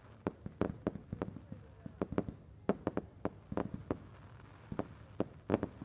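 Fireworks going off: an irregular run of sharp bangs and cracks, roughly three a second.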